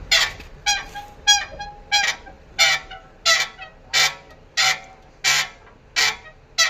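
Old Man Emu BP-51 shock absorber squeaking in a regular rhythm, about three short squeaks every two seconds, which the mechanic puts down to a worn, loose spherical bearing in the shock.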